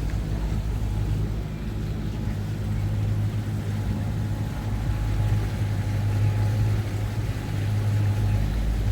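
Motorboat engine running steadily with a low hum, over an even wash of water and wind noise.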